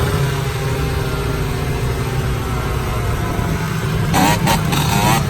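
Dirt bike engine idling steadily, with a short louder wavering burst about four seconds in.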